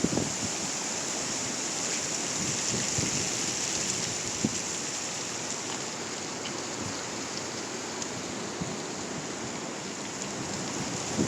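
Strong gusty wind rushing steadily through trees and blowing dry leaves about, a dense hiss, with a couple of brief wind knocks on the microphone near the start.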